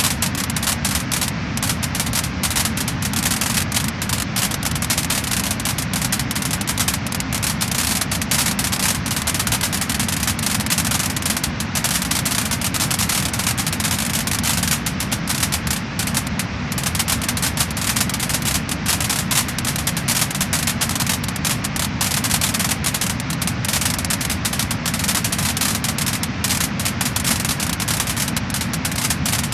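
Wood fire crackling and popping steadily: a dense run of small snaps over a continuous hiss.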